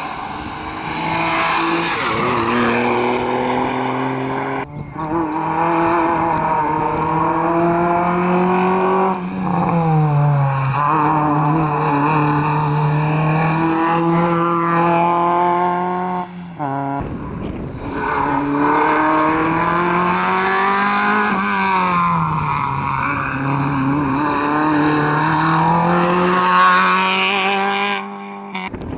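Rally cars driven hard on a tarmac stage: the engine notes hold high, dip and climb again through gear changes, with tyre squeal. The sound cuts off abruptly a few times as one car's pass gives way to the next.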